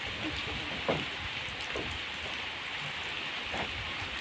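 Steady rain falling, with a few louder drips, the clearest about a second in.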